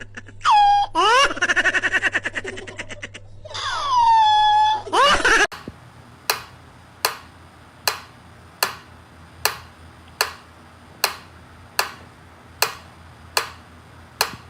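High, pitched vocal cries that rise and fall, some rapidly pulsed like giggling, for about five seconds. Then a sharp click repeats evenly, a little more than once a second.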